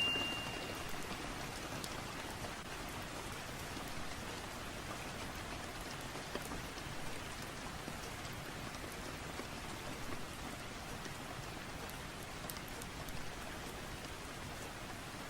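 Steady rain falling, an even patter with scattered light drop ticks. A single ringing chime tone dies away in the first second.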